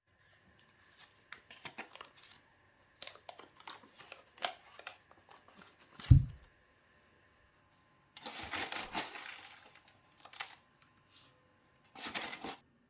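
Kitchen handling sounds: scattered light clicks and taps, one dull thump about six seconds in, and two longer stretches of rustling or crinkling, the first about eight seconds in and a shorter one near the end.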